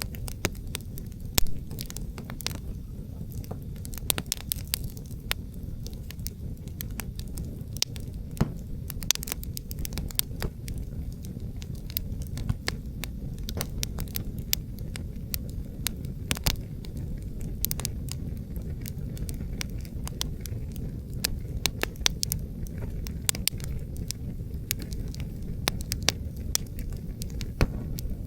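Wood fire crackling, with frequent sharp pops, over a steady low rumble of wind.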